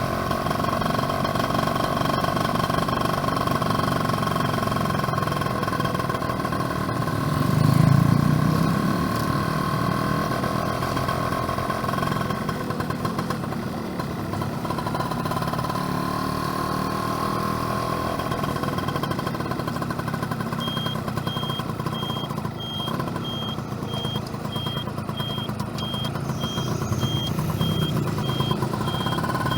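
Yamaha F1ZR's two-stroke single-cylinder engine running steadily while riding, with a swell of low rumble about eight seconds in. A faint, evenly repeating high beep joins about two-thirds of the way through.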